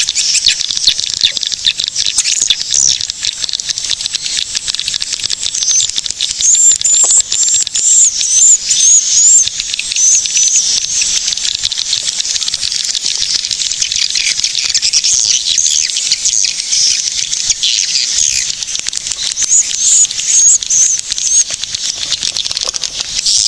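Swiftlets calling in a dense, unbroken chorus of rapid high chirps and twitters, with louder squeaky trills rising out of it about a third of the way in and again near the end.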